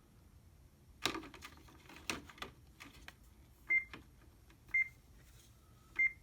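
Control-panel buttons on an HP 3330 all-in-one printer being pressed: a few clicks, then three short high beeps about a second apart as the menu keys are stepped through.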